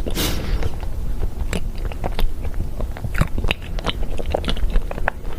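Close-miked chewing of crunchy spicy-coated peanuts: irregular sharp crunches and crackles several times a second.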